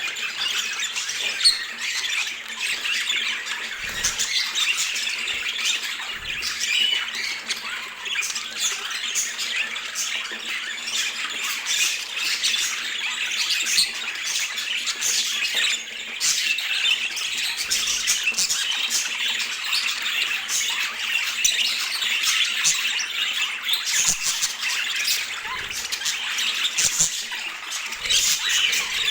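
Budgerigars chattering and squawking without pause, many short calls overlapping.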